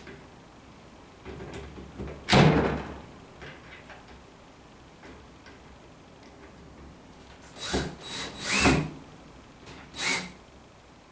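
Handling knocks and scrapes from wooden workpieces and tools: one heavy knock about two seconds in, then a quick cluster of sharper knocks and scrapes near the end.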